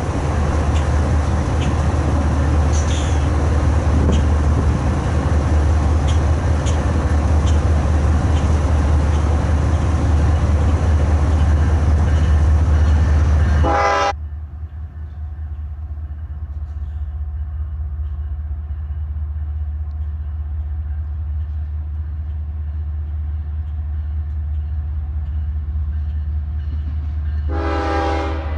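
A freight train running by with a heavy low rumble and scattered clicks of wheels over rail joints. It cuts off abruptly about halfway, giving way to a quieter, steady diesel locomotive rumble. Near the end comes one short train horn blast.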